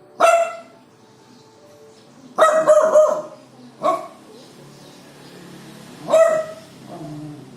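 A dog barking: single sharp, fairly high-pitched barks with a quick run of three about two and a half seconds in, about six barks in all, the last one weaker near the end.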